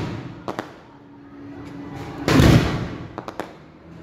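Aerial fireworks going off: a loud booming shell burst about two seconds in, with sharp short cracks before and after it.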